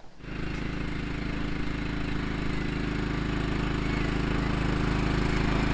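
Tractor engine running steadily at a constant speed. It cuts in suddenly right at the start and grows slowly louder.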